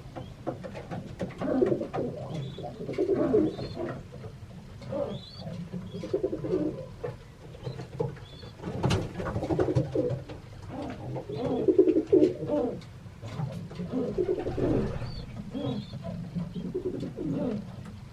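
Domestic pigeons cooing over and over, low rolling calls every second or two, with scattered small clicks and taps.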